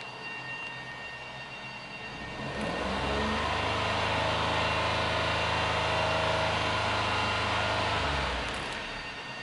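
Daihatsu Tanto Custom RS's 660 cc turbocharged three-cylinder engine idling, then revved up a little over two seconds in. It holds steady at raised revs for about five seconds and drops back to idle near the end.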